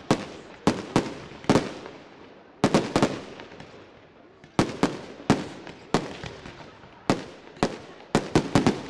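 Aerial firework shells bursting in a fireworks display: an irregular series of about fifteen sharp bangs in quick succession, each trailing off in a rolling echo.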